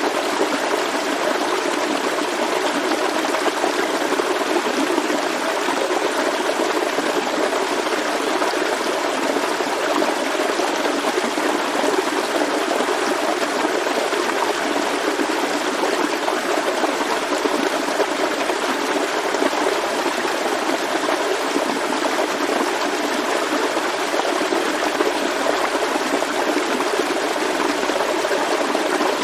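Forest stream flowing steadily, a constant rushing babble of water with no change.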